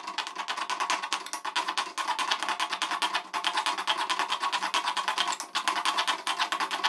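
Cashew nuts frying in hot ghee in an aluminium kadai: a dense, rapid crackling sizzle, with a spoon stirring them around the pan.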